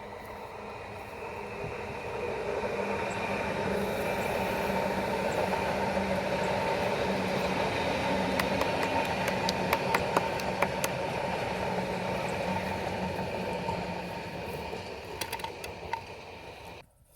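Electric passenger train running past on the track, building up over the first couple of seconds, holding steady with a low hum for about ten seconds, then fading. A run of sharp clicks comes in the middle. The sound cuts off suddenly just before the end.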